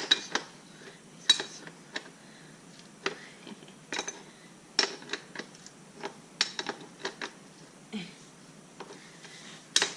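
Metal hand tools clinking and clicking against metal parts of a dirt bike as a nut is tightened: a dozen or so separate sharp clinks at irregular intervals.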